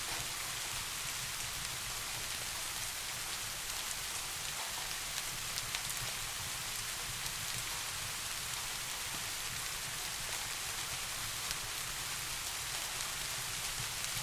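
Steady rain falling, an even hiss with scattered drops ticking, over a low rumble.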